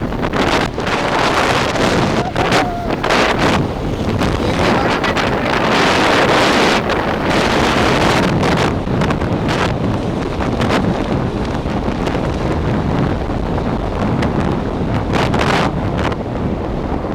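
Loud, gusty wind buffeting the microphone over a steady rushing rumble, the sound of filming from a moving train. The gusts swell to their loudest about six seconds in.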